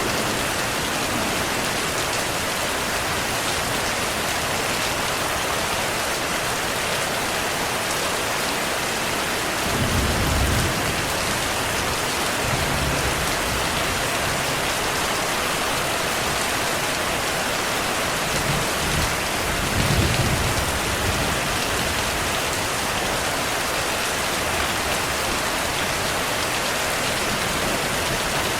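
Steady rain, with low rumbles of distant thunder about ten seconds in, briefly again near thirteen seconds, and a longer roll around twenty seconds.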